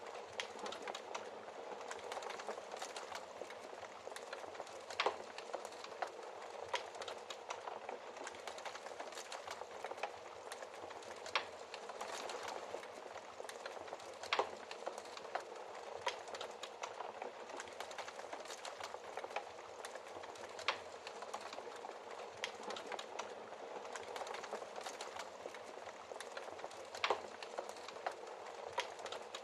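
Wood fire burning in a fireplace: soft steady crackling with many small snaps and a sharper, louder pop every few seconds.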